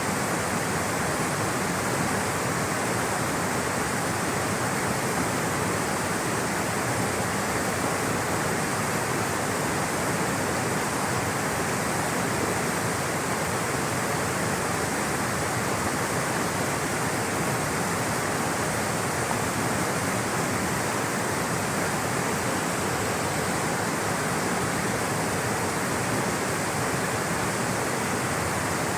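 Rushing water flowing steadily, a constant even roar with no breaks.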